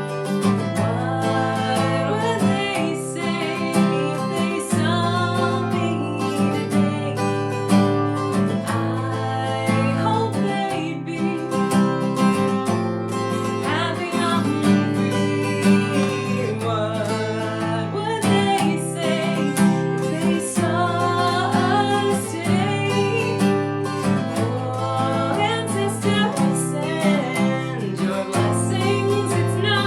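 Acoustic guitar playing a folk song, with a singing voice over it.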